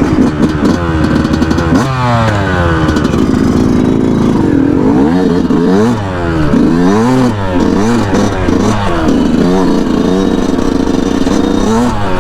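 A 2019 Yamaha YZ125's single-cylinder two-stroke engine revving up and down as the dirt bike pulls away and rides, its pitch rising and falling again and again with the throttle and gear changes.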